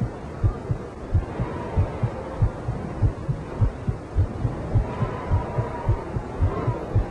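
A steady, even series of low thumps, about one and a half to two a second, over a low background hum.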